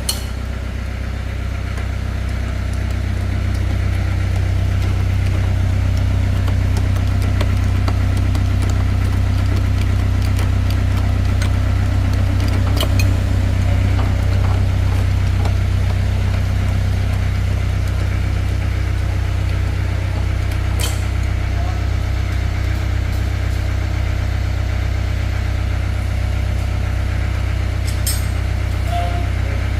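An engine running steadily at idle, a deep continuous hum with a slow regular throb, with a few light clicks and taps over it.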